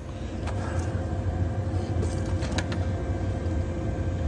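A vehicle engine running steadily with a low rumble, a faint steady hum above it and a few light clicks.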